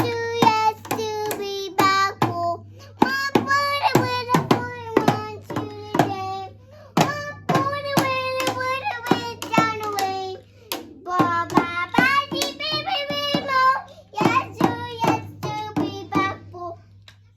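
A young child singing in a high voice while beating out a quick, uneven rhythm of sharp taps, with two short breaks in the song.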